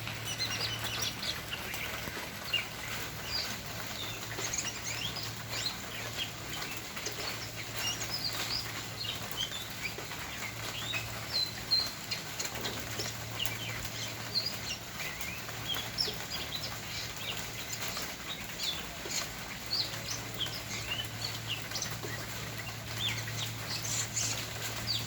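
Small birds chirping: many short, quick chirps scattered throughout, over a steady low hum.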